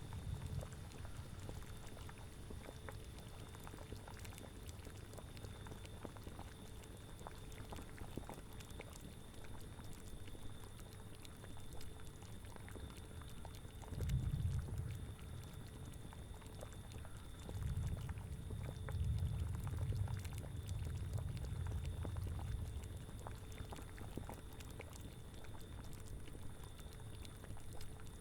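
Cauldron bubbling at a steady boil, a constant crackle of small pops, with low rumbling swells about halfway through and again a few seconds later.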